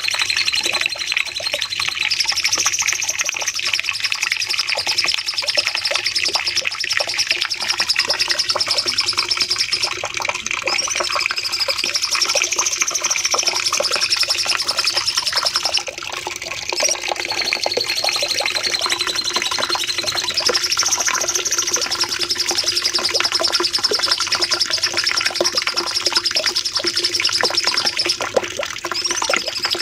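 Cucak cungkok songbird singing a long, unbroken run of fast, high-pitched trilling 'nembak' phrases, with rising-and-falling sweeps that come back about every nine seconds.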